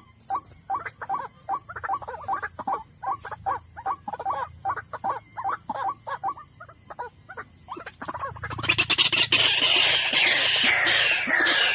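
White-breasted waterhen calling: a rapid run of short clucking calls, about three a second. About eight seconds in, a much louder, harsher chorus of falling notes breaks in.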